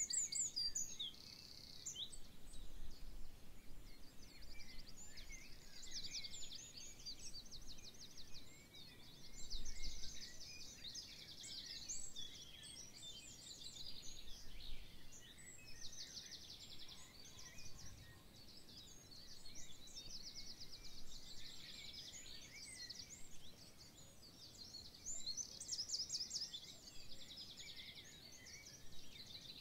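Several songbirds singing at once, a dense chorus of overlapping chirps and fast trills with no pause.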